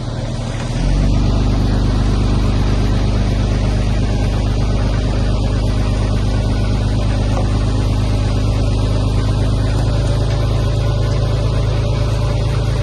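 Heavy earthmoving machine's diesel engine running steadily with a low, even note, getting louder about a second in and holding there.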